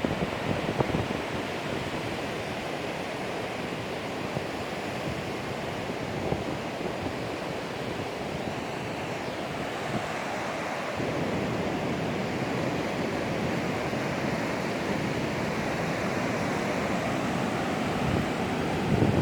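Pacific Ocean surf: a steady wash of breaking waves, with wind buffeting the microphone in a few low gusts, most strongly near the start and just before the end.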